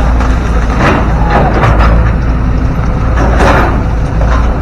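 Excavator's diesel engine running under load with a steady low rumble. Several short sharp cracks and scrapes sound over it.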